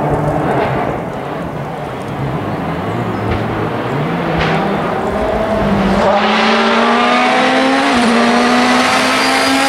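Rally car accelerating hard on a stage road. The engine note climbs in pitch through the revs, with a brief dip like a gear change, and grows much louder and nearer in the second half.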